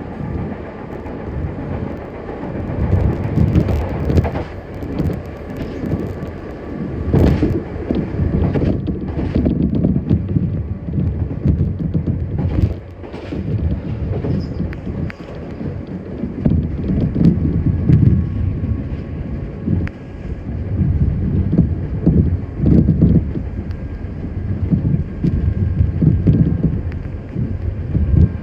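Nankai 7100 series resistor-controlled electric train running, heard from inside the car: a steady rumble of wheels on rail that swells and fades, with a few sharp clacks.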